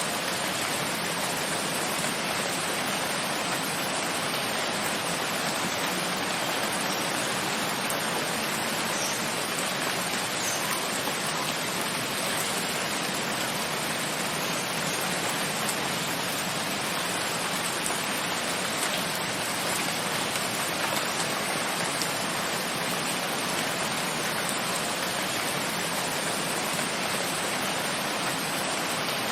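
Steady rain falling, an even hiss that holds at the same level throughout without breaks.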